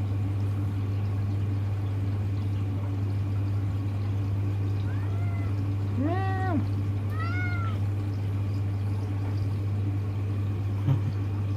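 A domestic cat meows three times in quick succession, about five to eight seconds in. Under the meows is the steady low hum of a front-loading washing machine.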